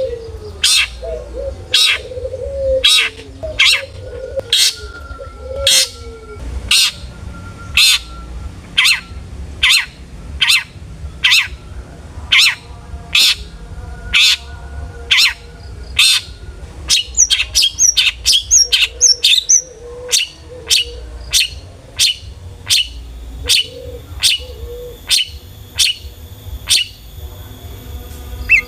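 Long-tailed shrike (cendet) singing in full song: a sharp call repeated over and over, about one and a half a second, with a quicker run of high chirps about two-thirds of the way through.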